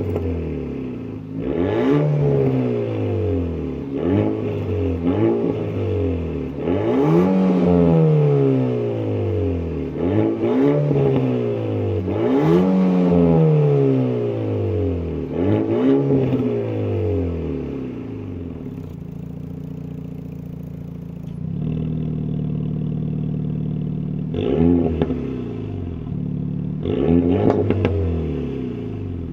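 Renault Mégane R.S. Trophy's turbocharged four-cylinder engine revved repeatedly, each rev climbing and falling back, about every two seconds. It settles to a steady idle for several seconds past the midpoint, then is blipped twice more near the end, with a few sharp cracks at some of the revs.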